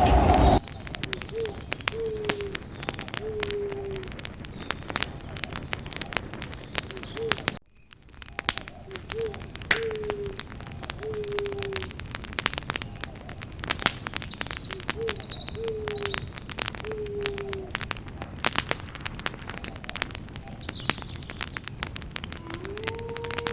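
Campfire crackling with many sharp pops and snaps. A bird gives a low three-note call, a short rising note then two falling ones, three times several seconds apart. The sound drops out almost completely for a moment about 8 seconds in, and a single longer held call comes near the end.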